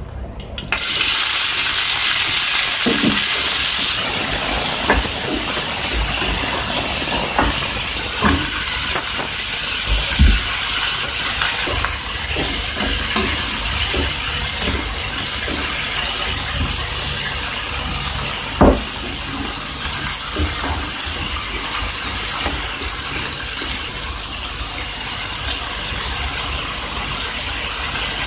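Pork, onion and green beans sizzling loudly in a hot non-stick frying pan. The sizzle starts suddenly about a second in, as the food hits the pan, and stays steady, with occasional light knocks of a wooden spatula stirring the food.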